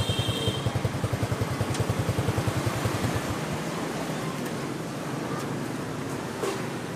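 Motorbike engine idling with a rapid, even putter, switched off about three seconds in; steady street noise remains.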